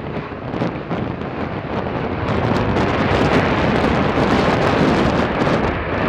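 Strong wind buffeting the microphone over the rumble of a jet airliner, growing louder about two and a half seconds in.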